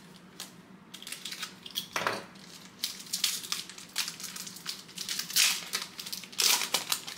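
A 2023 Panini Donruss Racing card pack's wrapper being torn open and crinkled by hand, in irregular crackling bursts that are loudest in the last two seconds.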